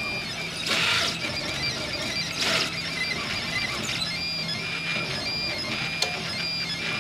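RepRap 3D printer's stepper motors whining at steady high pitches during a print, the tones stopping and starting in short repeated stretches as the axes move. Two louder rushing sweeps come about a second in and again about two and a half seconds in.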